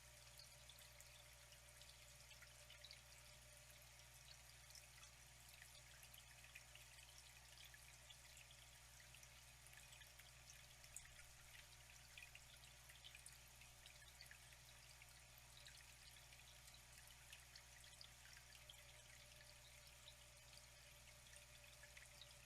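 Faint water flowing and trickling steadily, with many small splashes and drips, over a low steady hum.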